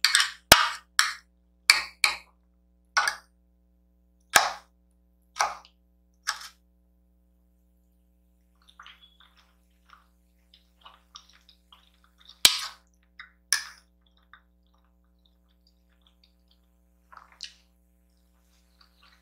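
Close-miked eating of kimchi noodles: a run of wet mouth smacks and slurps, one or two a second for the first six seconds, then quieter chewing with a couple of louder slurps. A few sharp clicks fall among them.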